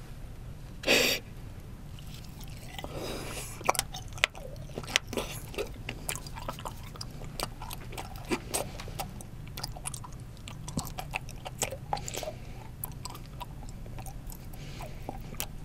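Close-miked chewing of a raw tuna eyeball: a run of soft wet mouth clicks and smacks, with one louder short sound about a second in.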